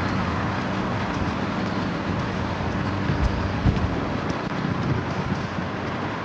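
Wind buffeting the microphone over a steady low vehicle hum and road noise, as heard while riding along a road.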